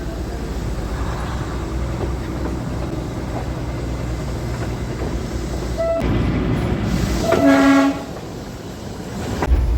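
Darjeeling toy train rolling with a steady low rumble heard from inside the coach. A brief high toot comes near six seconds in, then a louder single horn blast from the locomotive, under a second long, a little after seven seconds.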